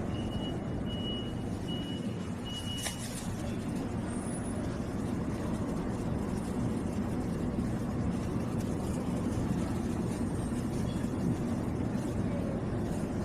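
Steady rumble of a vehicle's engine and road noise, with four short high beeps in the first three seconds followed by a sharp click.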